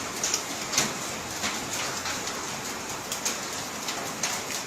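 Rain laden with volcanic ash and sand falling steadily, with scattered sharp ticks as heavier drops and bits of grit strike.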